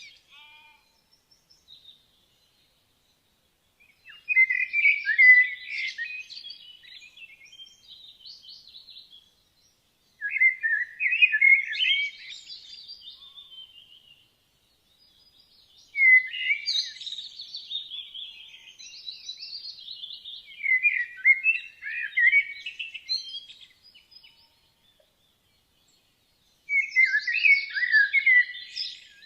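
A songbird singing in warbling, twittering phrases a few seconds long, about four phrases separated by short pauses.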